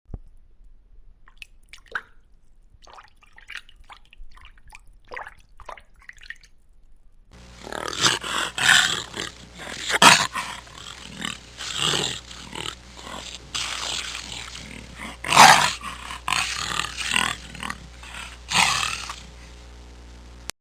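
An animal's calls: faint at first, then after a cut about seven seconds in, a run of loud, harsh calls repeating irregularly about once a second.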